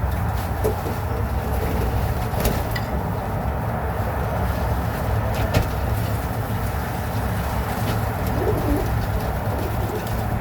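A flock of domestic pigeons cooing in their loft, with a few sharp taps or clicks.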